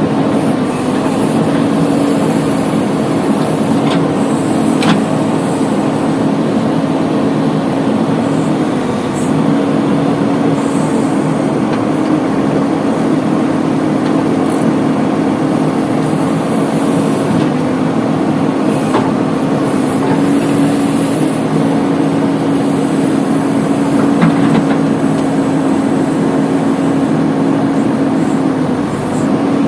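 Heavy diesel engine running steadily, its note dipping briefly about nine seconds in and again near the end, with a few faint knocks.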